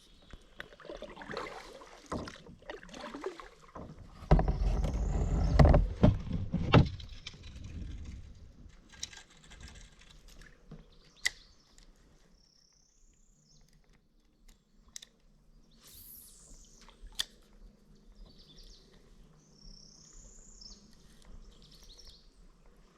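Kayak paddling: paddle strokes and water splashing, with a loud stretch of low rumbling handling noise for a few seconds about four seconds in. Near the end, a few short whistled bird calls.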